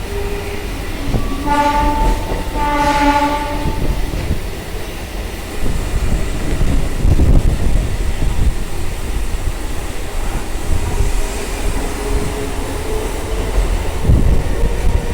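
Indian Railways train horn sounding twice, a short blast then a longer one, followed by the rumble and clatter of a train running on the tracks.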